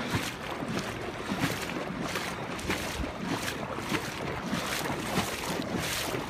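Legs wading through about three feet of floodwater, the water sloshing and splashing in irregular strokes.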